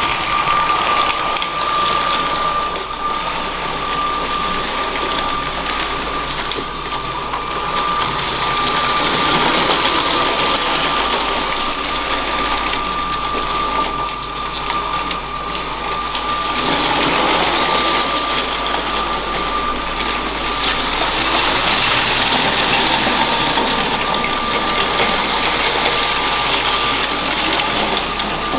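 Motorised LEGO train running on plastic track: the steady whine of its small electric motor over a rattle of wheels on the rails, swelling louder twice as it passes close by.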